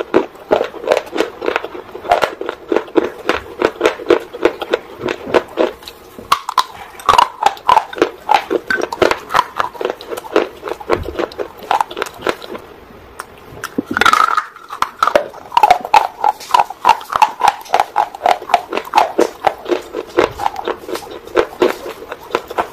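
Close-up, mouth-close crunching and chewing of a hard, dry earthy roll coated in red paste, a rapid run of sharp crunches several times a second. The crunching pauses briefly just past halfway, a short louder hissy sound follows, and then the chewing starts again.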